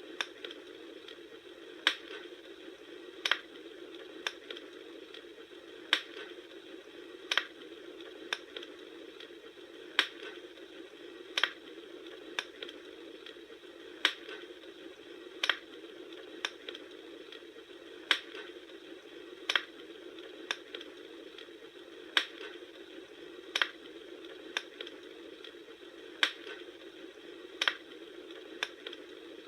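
Campfire burning, with sharp crackling pops about every two seconds, often followed by a smaller pop, over a steady hiss of the flames.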